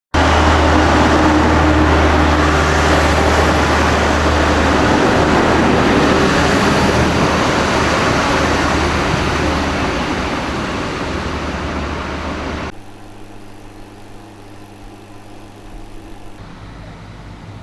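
Train running close by: a loud rush and rumble over a steady low hum. It eases after about ten seconds, then drops off abruptly to a much quieter background.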